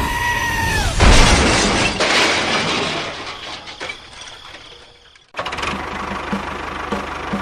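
A two-tone horn sounds and stops about a second in, then a loud crash with shattering noise that fades away over about four seconds. After a sudden cut, a steady rapid ticking with a low hum.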